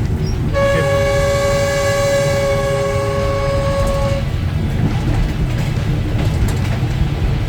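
Train horn sounds one long blast of several tones, beginning about half a second in and cutting off after about three and a half seconds, over the steady low rumble of the train running.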